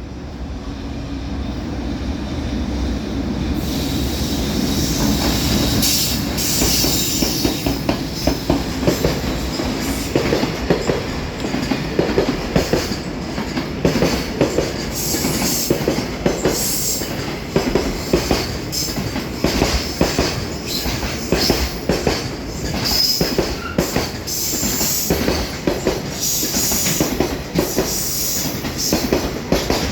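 JR Freight EH500 electric locomotive running in and passing, then its long train of container flatcars rolling through, wheels clattering over the rail joints in a continuous run of clicks. High wheel squeal comes and goes over the clatter.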